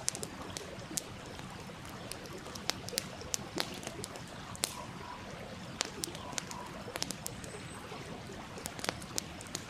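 Wood campfire crackling, with sharp irregular pops, over the steady rush of a stream.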